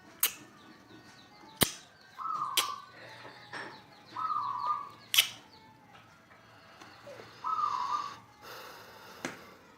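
Three short, even bird-like calls, each about half a second, spaced a couple of seconds apart, with a few sharp clicks between them.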